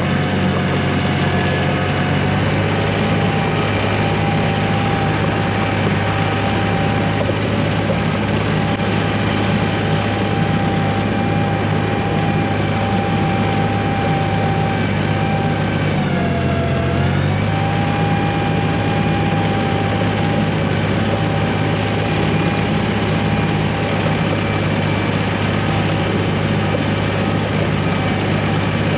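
1985 John Deere 1050 tractor's diesel engine running steadily under load while plowing snow, with a whine riding on the engine note. About two-thirds of the way through, the engine speed sags briefly under the load and then recovers.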